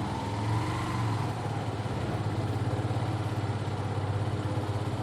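Motorcycle engine running steadily at low revs, with a rapid, even pulse.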